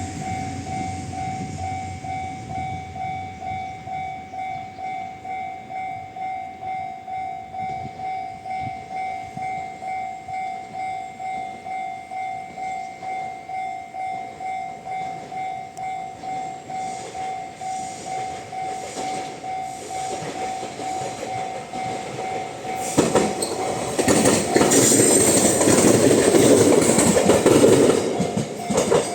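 A level crossing warning bell dings steadily, nearly twice a second. About 23 seconds in, an Abukuma Express AB900-series electric train passes close by, its wheels clacking over the rail joints and drowning the bell for about five seconds.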